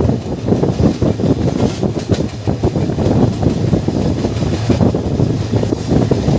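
Passenger train running along the line: a steady, loud rumble with rapid rattling of the wheels on the rails.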